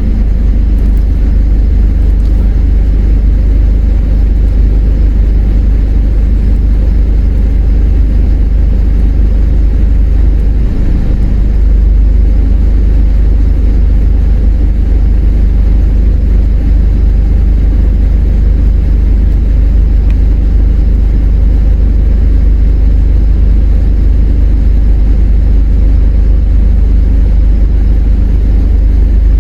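Four-wheel drive's engine and tyres rumbling steadily as it drives a rough dirt track, heard from inside the cabin; the low rumble swells briefly about a third of the way in.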